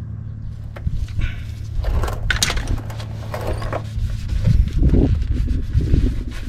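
Oil drain plug being tightened by hand with a ratchet and socket: irregular metallic knocks and scraping of the tool against the plug and pan. A steady low hum is heard during the first couple of seconds.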